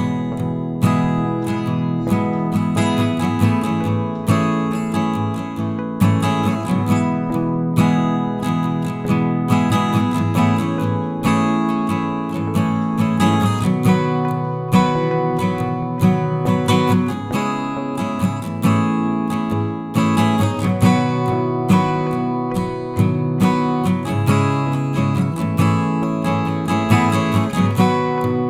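Instrumental acoustic guitar music: a gentle piece of strummed and picked chords.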